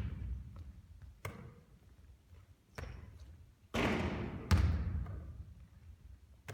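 A basketball bouncing on a court: a few separate thuds, then a short rattling burst and a sharp bang a little past halfway, which is the loudest.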